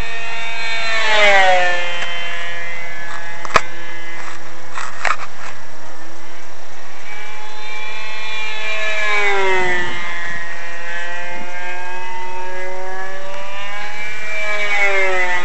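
Multiplex Dogfighter RC plane's Emax GT2820 brushless motor spinning an APC 8x8 propeller, a steady pitched whine that drops sharply in pitch as the plane passes by about a second in and again around nine to ten seconds in, with the pitch shifting between passes. A sharp click a few seconds in.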